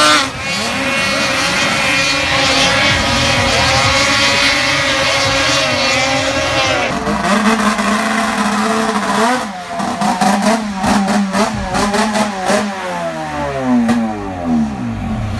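Several two-stroke snowcross race sleds revving hard on the track, with engine pitches rising and falling over one another as they accelerate and back off. The sound changes abruptly about seven seconds in, and near the end the engine pitches fall away steeply as sleds pass.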